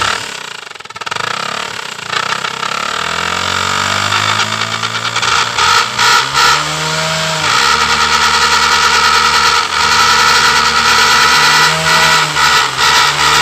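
Motorcycle engine starting and running through two exhaust silencers joined together, giving a steady high tone over the engine note. It gets louder over the first several seconds, with brief throttle changes about halfway through and again near the end.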